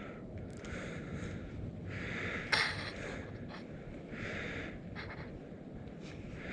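A person breathing hard, with heavy breaths about every second over a low background rumble. There is one sharp click about two and a half seconds in.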